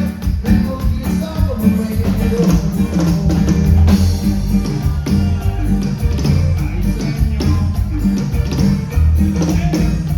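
Live band music played loud, with drum kit, bass and guitar over a steady, even beat.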